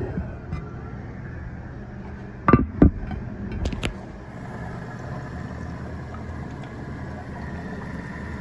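Kohler Highline Pressure Lite pressure-assist toilet refilling after a flush: a steady hiss of water running into the pressure tank, with a few sharp knocks about two and a half to four seconds in.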